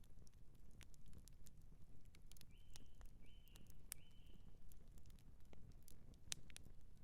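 Outdoor wood campfire crackling: irregular sharp pops and snaps of burning wood over a low, steady rumble of the fire. Three short high chirps come one after another in the middle.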